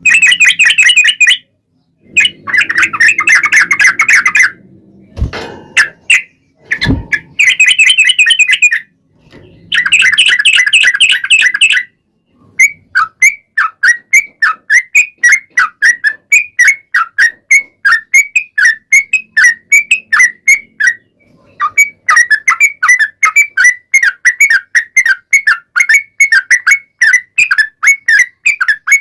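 Yellow-vented bulbul (trucukan) singing: several bursts of loud, rapid chattering in the first twelve seconds, then a long run of quick falling notes, about four a second, with a short break about three quarters of the way through. Two low thuds sound around five and seven seconds in.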